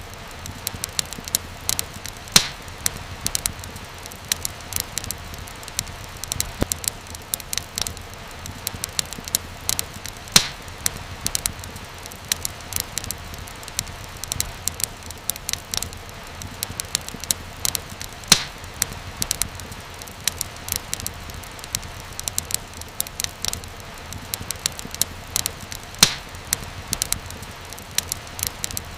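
Wood fire in a fireplace crackling, with a steady stream of small snaps over a low, even rumble, and a few louder pops about every eight seconds.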